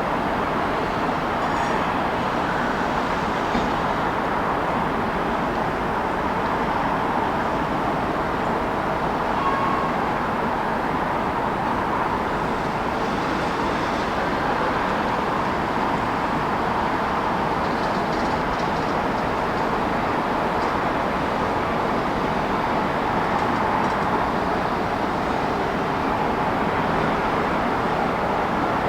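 Steady city traffic noise: a continuous wash of vehicles without any single event standing out.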